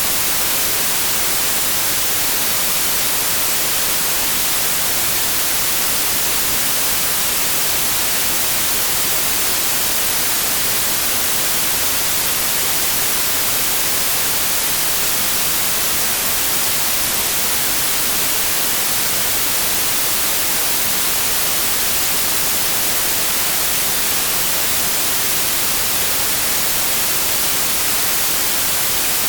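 Synthetic white noise: a steady, even hiss with the most energy in the high frequencies, unchanging throughout.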